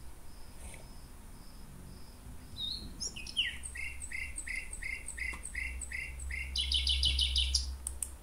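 A songbird singing: about eight short falling notes, two or three a second, then a fast trill of higher notes near the end. A steady low hum runs underneath.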